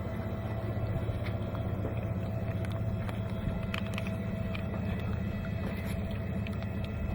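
A small boat's motor running steadily: an even low drone.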